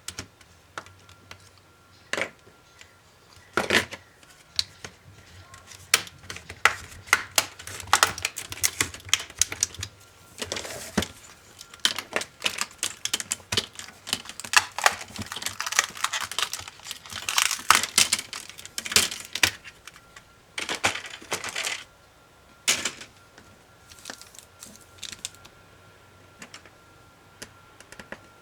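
Laptop parts being taken apart by hand: irregular clicks, taps and short scrapes of plastic and metal pieces being pried and handled, thickest in the middle and sparse near the start and end.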